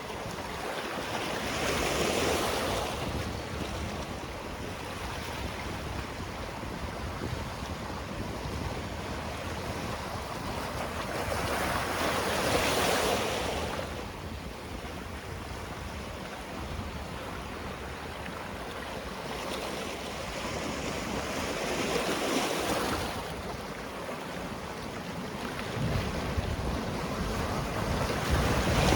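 Sea waves breaking and washing up on the shore over a constant wash of surf. A louder surge comes roughly every ten seconds: four in all, the last right at the end.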